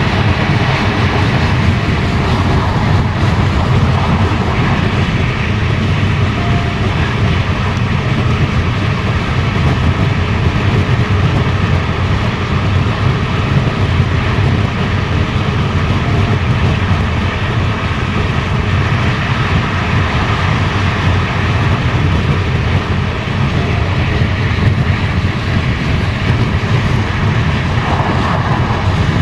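Passenger railway coach running at speed on the line, heard from inside the coach: a steady deep rumble of wheels on rails with a faint steady high whine above it.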